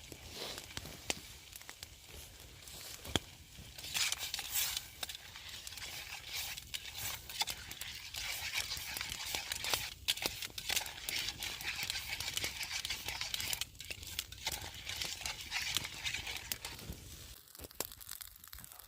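Campfire cooking: a steady hiss with many sharp crackles, louder from about four seconds in and fading near the end.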